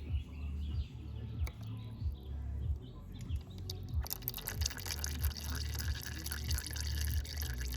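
Engine oil draining and dripping from a Yamaha YFZ 450's crankcase drain into a drain pan, a fine crackling patter that turns denser and louder about four seconds in, over a steady low rumble.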